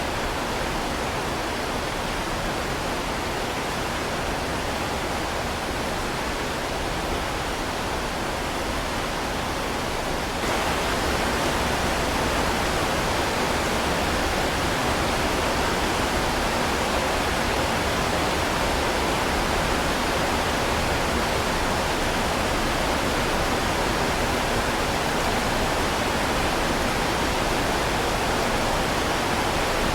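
Heavy rain falling as a steady, dense hiss. About ten seconds in it steps abruptly up to a slightly louder level.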